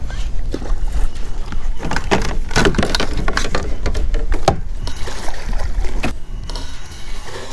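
Wind buffeting the microphone as a steady low rumble, with a cluster of sharp knocks and clatters on the kayak from about two to four and a half seconds in.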